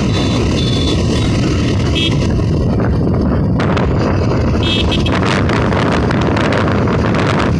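Wind rushing and buffeting over the microphone of a moving vehicle, over a steady low road and engine rumble, with a few short high tones about 2 and 5 seconds in.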